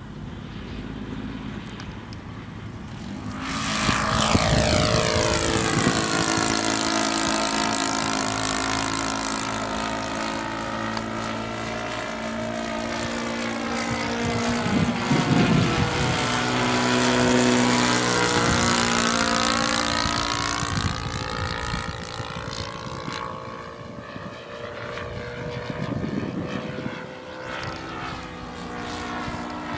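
Single-engine propeller airplane flying close by. Its engine and propeller drone swells sharply about three to four seconds in, stays loud with the pitch shifting as it passes, and eases off near the end.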